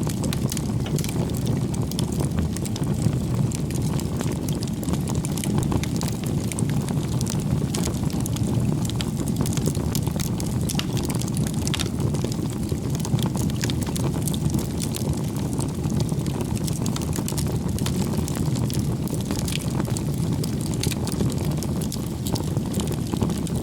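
Bonfire of firewood burning: a steady low rumble of flames with frequent small crackles and pops from the burning wood.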